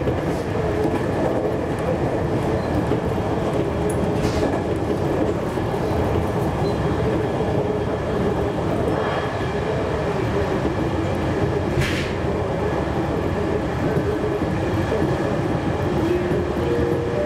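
A JR Kyushu 813 series electric train running along the track, heard from inside: a steady rumble of wheels on rail with a low hum, and two sharp clicks about four and twelve seconds in.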